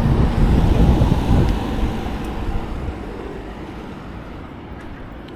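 Wind buffeting the microphone in gusts, strongest in the first second and a half and easing off toward the end.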